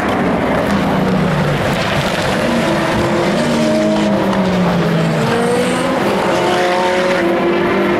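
Several endurance race car engines going by at once, their pitches overlapping and falling away as they pass.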